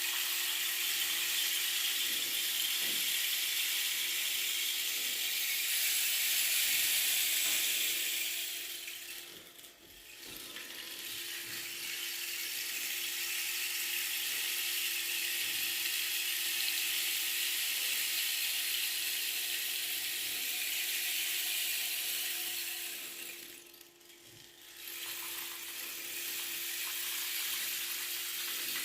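Rain stick pouring: a steady, high rattling hiss of pebbles or seeds cascading inside the tube. It fades almost to nothing twice, about ten and twenty-four seconds in, as the fill runs out, and starts again when the stick is turned over.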